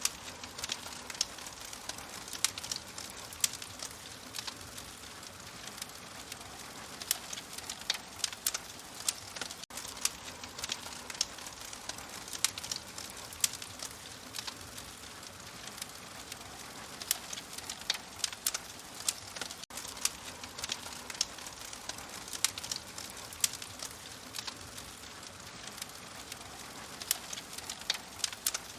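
Fire crackling: a steady hiss with frequent sharp, irregular pops.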